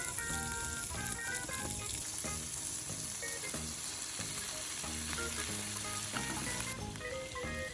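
Beef sizzling as it fries in a pot, a steady hiss that cuts off suddenly near the end. Background music with a melody plays throughout.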